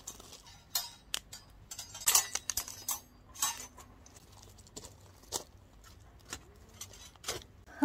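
Kindling and hemp twine in a freshly lit wood fire, with irregular sharp snaps and crackles, a dozen or so spread unevenly and the loudest about two seconds in and at the very end: the fire has just caught.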